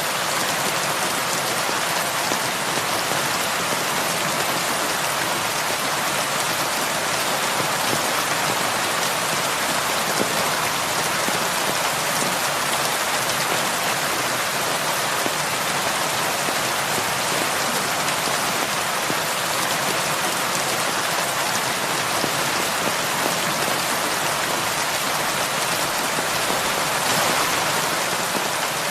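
Heavy rain falling steadily, a dense even hiss of many drops pattering on surfaces.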